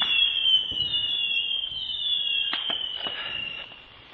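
Whistling fireworks: several high whistles overlap, each falling in pitch over about a second, with a few sharp cracks among them. The sound fades away near the end.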